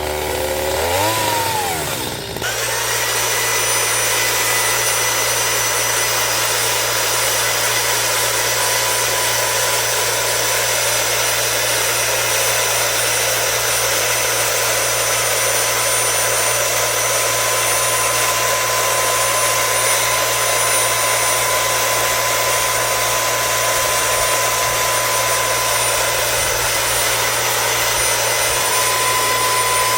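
A power tool's motor revs up over the first couple of seconds, then runs steadily at full speed with a constant high whine.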